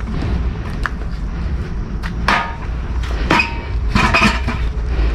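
Knocks and clattering of junk being moved around inside a dumpster, several separate hits with a short ring to some of them, over a steady low rumble.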